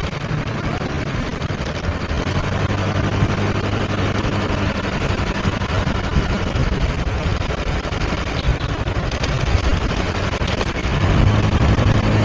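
Motorbike engine running while riding, under a steady rush of wind and road noise; the engine grows louder near the end.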